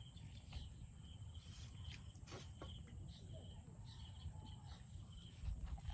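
Insects chirping in a pulsing trill, with a steady high whine above it, over a low outdoor rumble and a few faint clicks.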